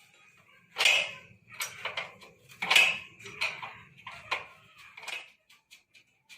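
Metal parts and hand tools clinking and knocking, with short ringing after each hit; the two loudest knocks come about a second in and just under three seconds in.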